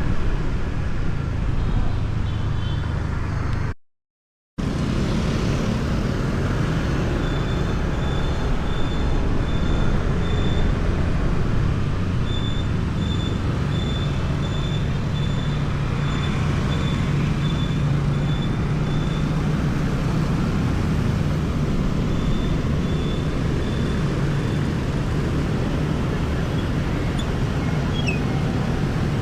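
Motorbike riding through city traffic: steady engine and road noise, with short high electronic beeps about twice a second through the middle stretch and again briefly later. The sound cuts out to silence for under a second about four seconds in.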